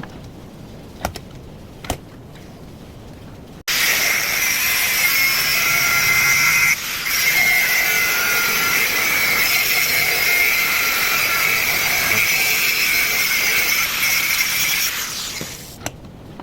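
A couple of sharp knocks, then a power tool starts abruptly about four seconds in. It runs steadily with a high-pitched whine for about eleven seconds, then winds down.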